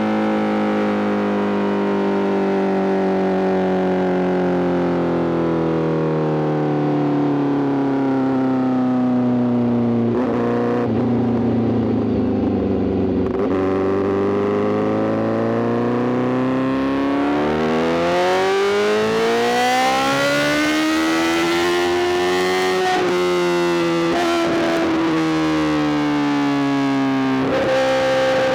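Honda CBR1000RR-R SP's inline-four engine through a full Arrow GP exhaust: revs falling steadily for about ten seconds as the bike slows, then climbing again as it accelerates, with a gear change near the end.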